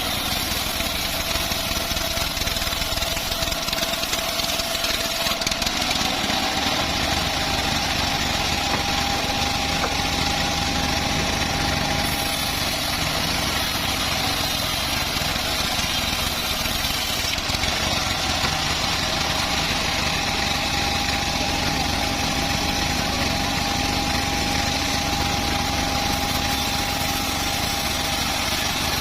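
Homemade bandsaw sawmill running with a steady mechanical drone and a thin whine that steps up slightly in pitch about six seconds in.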